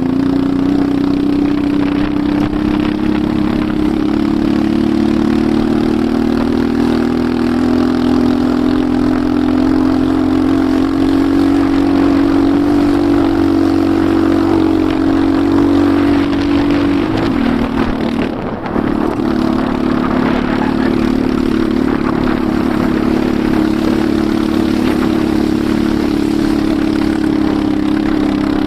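Enduro motorcycle engine running steadily under way, its pitch rising slightly; about two-thirds of the way through, the engine note drops off briefly and then picks up again.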